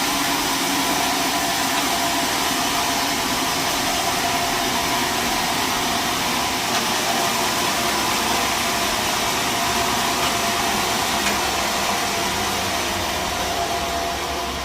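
Sawmill machinery running steadily: a loud, even mechanical noise with a hissing wash and a faint constant whine.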